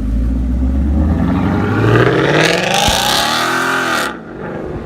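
A car engine accelerating hard, its pitch climbing steadily for about two and a half seconds, then easing back before the sound cuts off abruptly about four seconds in.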